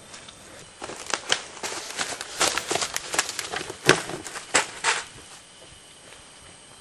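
Irregular crackling and rustling: a quick, uneven run of sharp clicks and crunches for about four seconds that dies away to a faint hiss.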